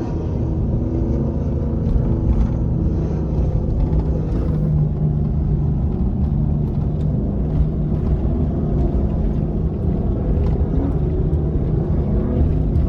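Pace truck's engine running steadily as it drives around the track, with low road rumble.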